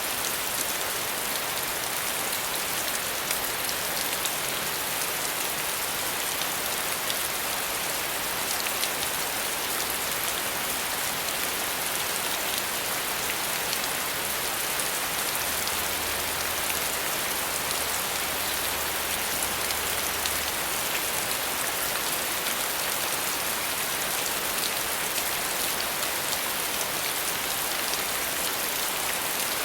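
Steady rain falling, a dense even patter of drops hitting a surface with fine individual drop ticks.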